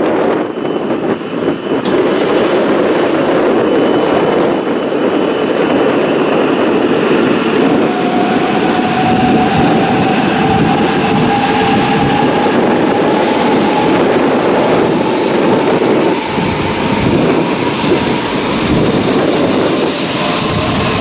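Joetsu Shinkansen bullet train moving past the platform: a steady, loud rush of wheels and air, with a faint whine that rises slightly in pitch about eight seconds in.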